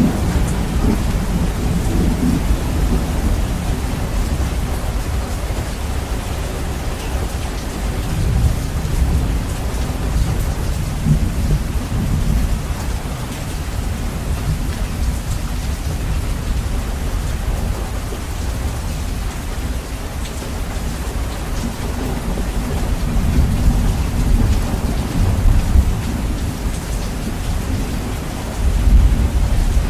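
Steady rain with rolling thunder, heavily bass-boosted so the low rumble dominates; the thunder swells several times, most strongly near the end.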